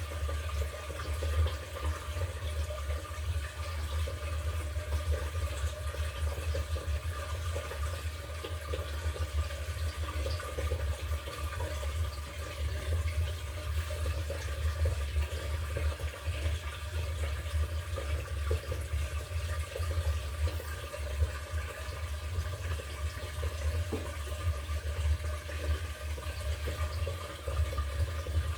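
LG top-loading washing machine with water rushing steadily in its tub, over a constant low hum.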